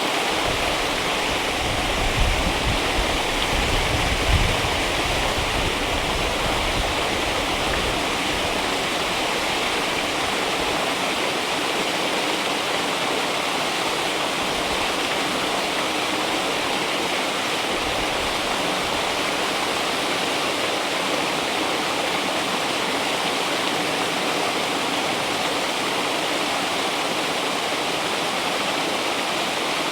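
River water flowing and rushing steadily. A low rumble is added over the first several seconds, with two small swells near the start.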